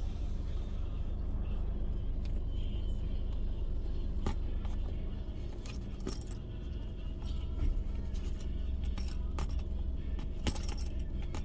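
Steady low hum with scattered light metallic clicks and jingles.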